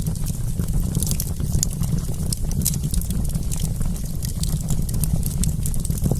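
Wood campfire crackling: many small sharp pops and snaps at an irregular pace over a steady low rumble.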